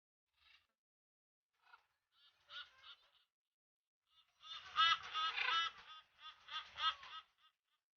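Parrots squawking in short, honking calls: a few scattered single calls, then a loud run of squawks in the second half.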